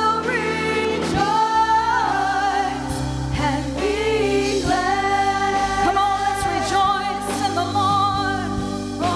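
Gospel worship song: voices holding long, wavering notes over a steady accompaniment whose bass note changes twice.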